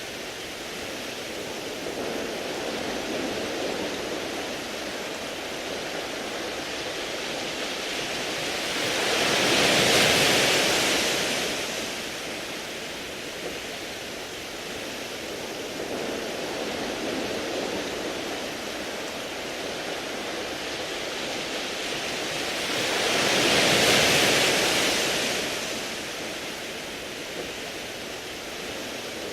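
Sea waves washing onto a beach of smooth round pebbles, a steady wash of surf. Two bigger waves swell up and fade away, about a third of the way in and again some fourteen seconds later.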